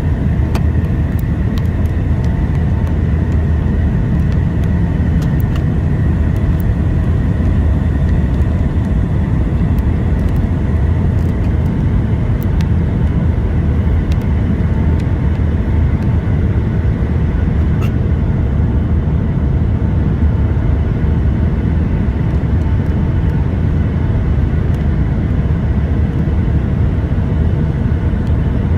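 Steady cabin noise inside a Boeing 757-200: a low, even rumble of engines and airflow with a faint high whine over it.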